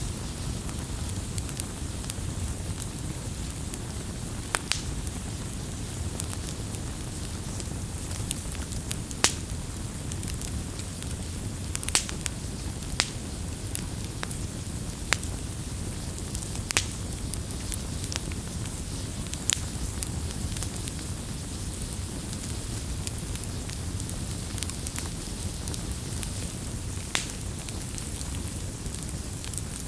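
Wood campfire burning: a steady low rumble of flames with irregular crackles and sharp pops from the burning wood, a dozen or so louder snaps.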